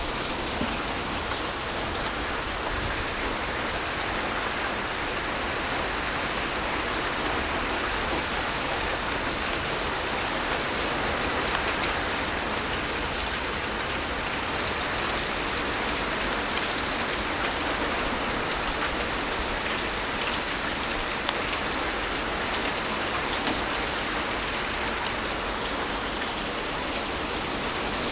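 Hard rain falling steadily: a dense, even hiss of pouring rain, with scattered drop ticks.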